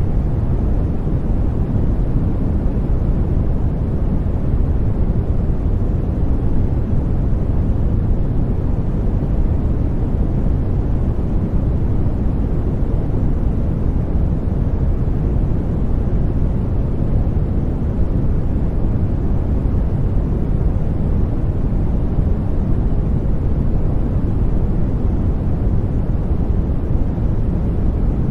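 Continuous sleep white noise: a steady, even hiss weighted toward the deep end, with no changes, beats or tones.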